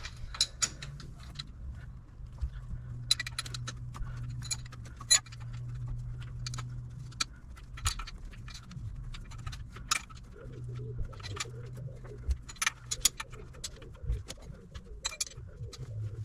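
Irregular metallic clicks and clinks of a spanner working the 9/16 in. pinch bolt on an HEI distributor's hold-down clamp, over a steady low hum.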